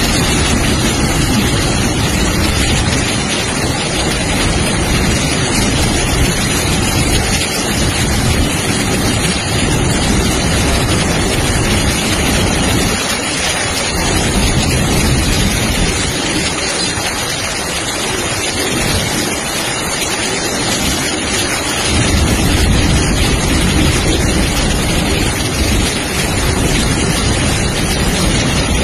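A loud, steady rushing noise from a freight train of open wagons running through flooded track in heavy rain, its wheels throwing up sheets of spray, with rain and wind buffeting the microphone. The deep rumble eases off for a while in the middle and comes back stronger near the end.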